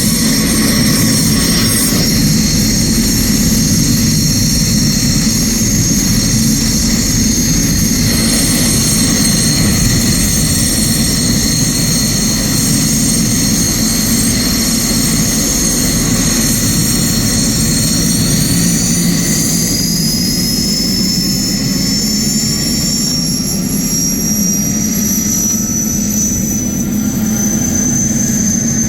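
GTD-350 turboshaft engine of a homemade helicopter running: a steady high turbine whine over a low rumble. About two-thirds of the way in the whine climbs in pitch and stays higher.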